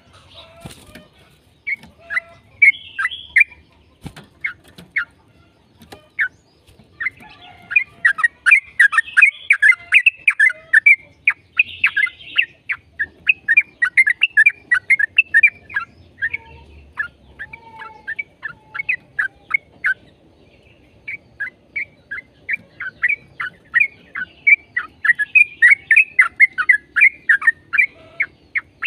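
Yellow-vented bulbul (trucukan) singing its fast rolling chatter (ropel): rapid runs of short, falling notes, with a brief lull a little past the middle.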